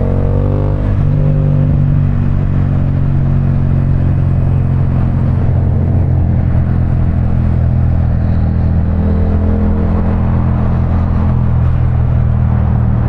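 Parallel-twin motorcycle engine running at a steady cruise under a haze of road noise, its pitch lifting slightly about a second in.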